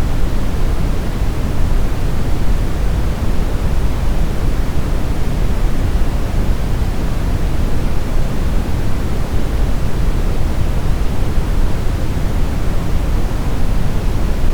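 Steady synthetic brown noise: a deep, even rumble with no events or changes, strongest in the lows and fading toward the highs.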